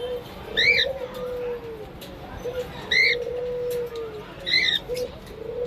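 Cockatiels calling: three short chirps that rise and fall, about two seconds apart. Between them comes a lower, drawn-out tone that swells and fades, repeated three times.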